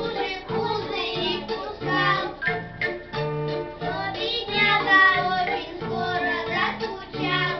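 A child singing a children's song over an instrumental accompaniment with a steady, regular beat.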